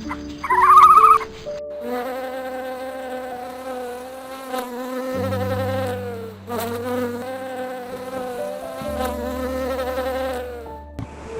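An insect buzzing in two long stretches with a brief break between them, after a short high call in the first second, over soft background music.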